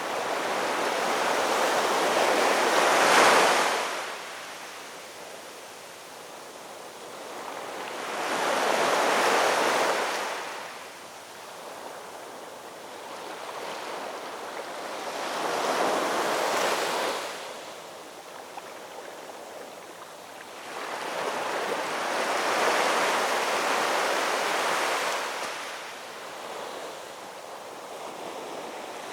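Ocean waves breaking and washing in, four surges about six to seven seconds apart, each swelling and fading over a few seconds.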